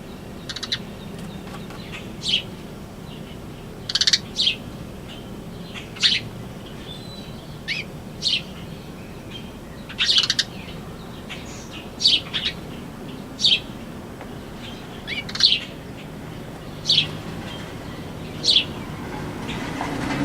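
A bird chirping repeatedly: short, sharp chirps every second or two, about fifteen in all.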